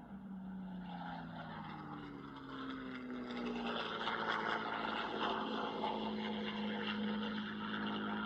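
Aircraft engine noise from a flypast: an engine tone falls in pitch as the aircraft passes, then a louder, steady rushing engine sound builds from about a third of the way in.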